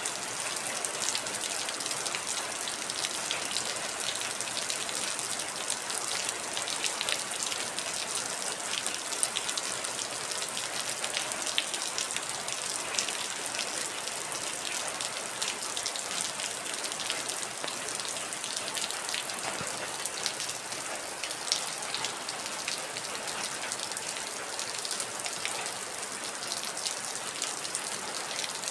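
Heavy rain falling steadily, an even hiss studded with many close individual drop impacts.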